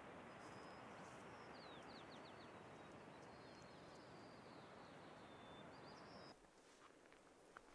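Faint outdoor ambience: a steady rushing noise with a small bird calling over it in thin high chirps, including a quick run of falling notes about a second and a half in. The rushing noise stops abruptly about six seconds in, leaving only the quiet high calls.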